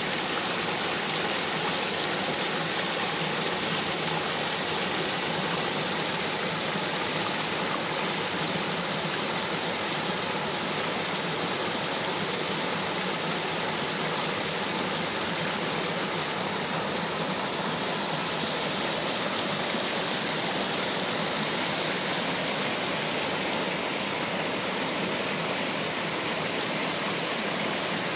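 Small waterfall and stream: water falling and rushing in a steady, unbroken hiss.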